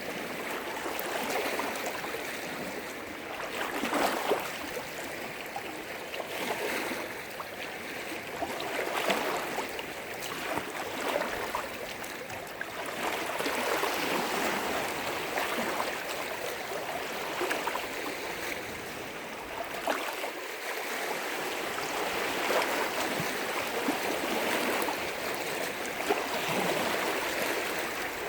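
Lake waves breaking and splashing against the shore, rising in uneven surges every few seconds.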